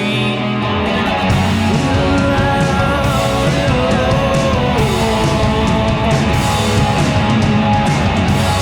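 Live rock band playing an instrumental passage, with electric guitars and drums.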